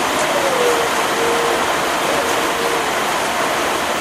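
Heavy rain pouring down steadily, with a faint drawn-out tone over it that falls slightly in pitch.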